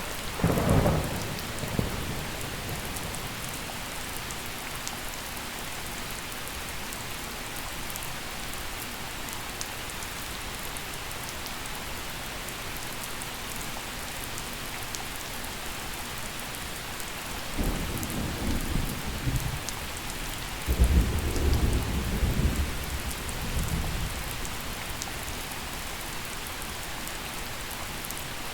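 Gentle rain falling steadily on surfaces, with fine drop ticks, during a thunderstorm. Thunder rumbles briefly just after the start, then rolls twice more from about 17 seconds in, the second rumble the louder.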